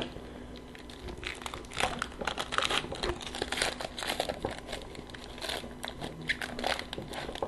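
A trading-card pack wrapper crinkling as it is handled and opened, with many irregular crackles.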